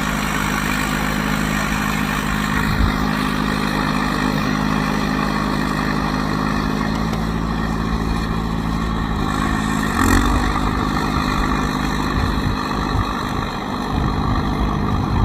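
John Deere bulldozer's diesel engine running steadily as it pushes snow, its note shifting about ten seconds in, with wind buffeting the microphone.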